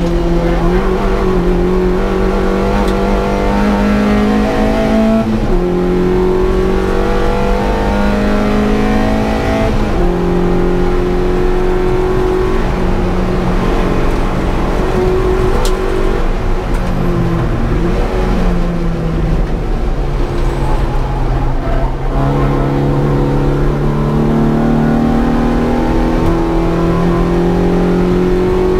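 Opel Corsa's C20XE 2.0-litre 16-valve four-cylinder engine pulling hard at high revs, heard from inside the cabin. Its note climbs in pitch and drops sharply at each gear change, about three times.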